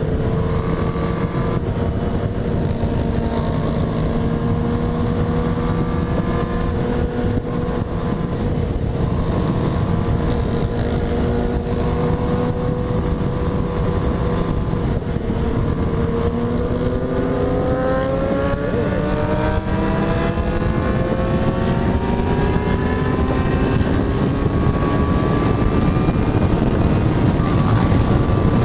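Motorcycle engine running at steady revs with wind rushing past, its pitch climbing slowly over the second half as it accelerates.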